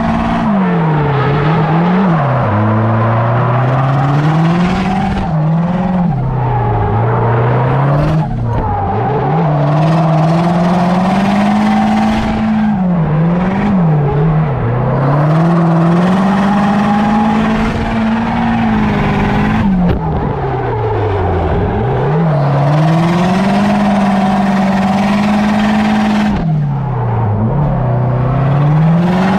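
Turbocharged Nissan KA24DE 2.4-litre four-cylinder in an S13 240SX, revving hard and falling back again and again while the car drifts around the track. Its note climbs and drops roughly every two to four seconds over a hiss of tyre and wind noise.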